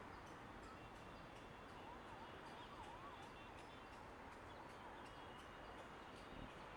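Near-silent outdoor ambience with a faint warbling bird call, rising and falling quickly, from about two seconds in to about five and a half seconds, over faint high repeated chirps.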